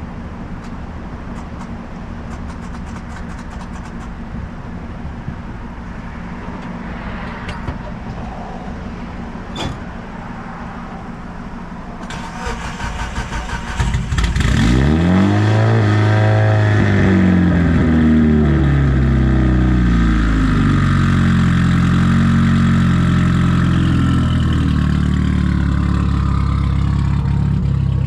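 A car engine is cranked by its starter for about two seconds and catches, sweeping its revs up and back down before settling into a loud steady idle. Before it starts, a steady low engine rumble from idling cars.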